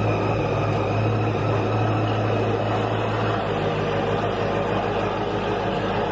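Jeep Grand Cherokee Trackhawk's supercharged 6.2-litre Hemi V8 running at idle just after being fired up, its tune by Satera Tuning; the idle note shifts a little past halfway through.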